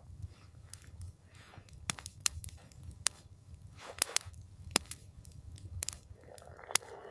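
Wood campfire crackling: irregular sharp pops and snaps, several a second at times, over a low, steady rumble.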